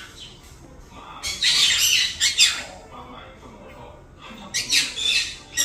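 Conures squawking in loud, harsh calls: a long bout about a second in and a shorter one near the end.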